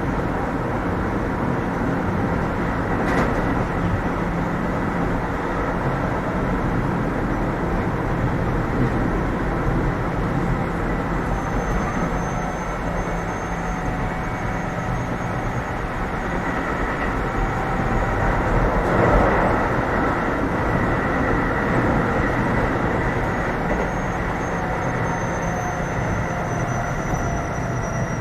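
Keio 7000 series train running at speed, heard from inside the passenger car: a steady rumble of wheels on rail, with a single click about three seconds in and a faint high whine that drifts slightly down in pitch near the end.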